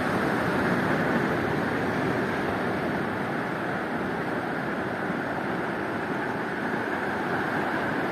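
Ocean surf: a steady rush of churning, foaming sea water, a little louder at the start and easing slightly.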